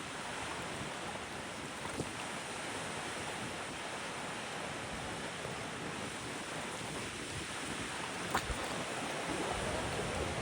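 Wind blowing over the microphone with sea waves washing on the shore, a steady rushing noise; a couple of short clicks, about two seconds in and near the end.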